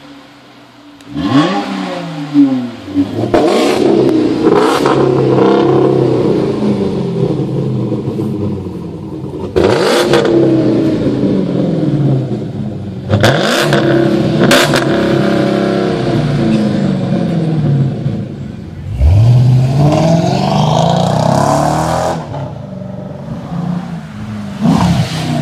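Dodge Challenger engine revved through its exhaust while parked. A series of quick throttle blips send the revs up and let them fall back to idle. The revs are held up briefly a few seconds in, and there is a bigger rev about nineteen seconds in.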